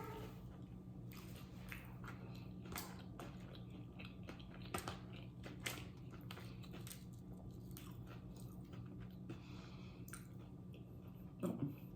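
Close-miked chewing and biting of a burrito and tortilla chips, with scattered soft clicks of the mouth and a few louder bites, over a low steady hum.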